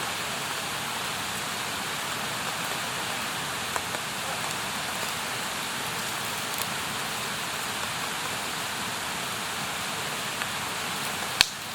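Campfire burning with a steady hiss and scattered crackles, and one sharp pop near the end.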